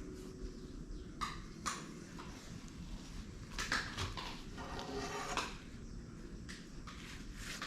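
Irregular light knocks and clinks, as of a metal object being handled on a hard surface, with a short scraping stretch about five seconds in.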